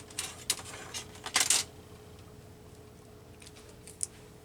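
Craft supplies being handled and set down on a tabletop: a few short clatters and rustles in the first second and a half, then a couple of faint ticks near the end.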